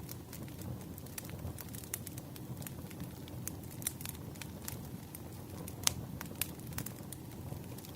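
Wood bonfire crackling: irregular sharp pops and snaps, a few louder ones, over a low steady rumble of burning.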